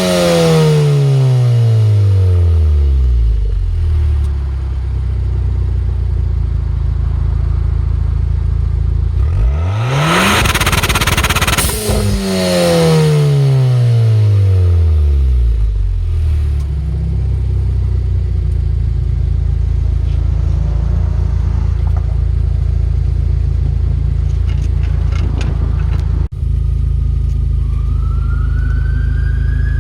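Car exhaust with a tune set for pops and crackles, idling between two sharp rev blips whose revs drop back quickly; a few crackles are heard on a later blip. A siren rises and falls near the end.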